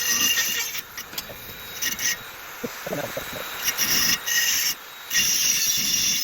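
Dremel rotary tool grinding into the metal of an exhaust, a high whine with grinding noise that comes and goes in several short bursts.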